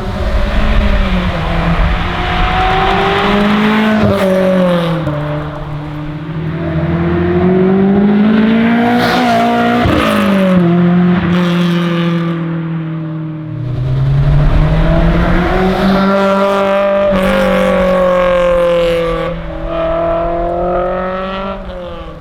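Honda S2000 four-cylinder engine running through a catless Berk 70mm test pipe and HKS 75mm cat-back exhaust, revving hard. Its pitch climbs and drops several times as it accelerates and lets off.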